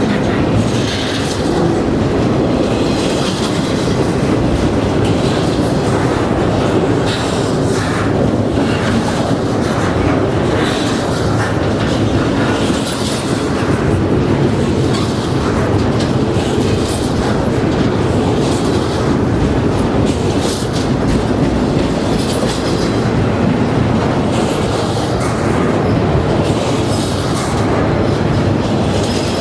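Norfolk Southern freight train's cars rolling steadily past at close range, the wheels clicking rhythmically over the rail joints.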